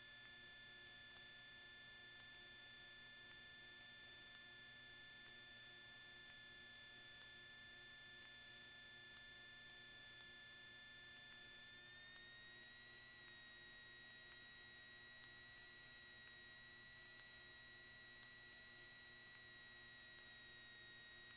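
Electrical interference in an aircraft headset/intercom audio feed. A short tick with a rising whine repeats about every second and a half, typical of the charging whine from an anti-collision strobe or beacon power supply, over a steady high-pitched tone. The steady tone shifts slightly in pitch about halfway through.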